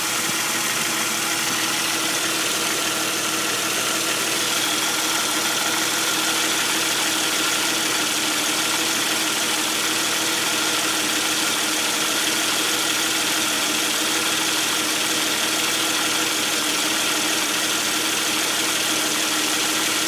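Jeep Grand Cherokee WJ's 4.0-litre inline-six idling steadily, with an uneven rattle at idle likened to marbles, something sticking. A mechanic suggested it may be a lifter.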